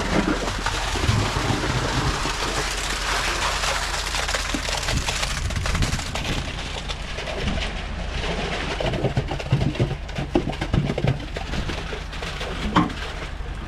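Wet concrete pouring and splattering from a boom pump's hose, a steady rushing noise with a steady low hum underneath. It turns more crackly, with many sharp ticks, about halfway through.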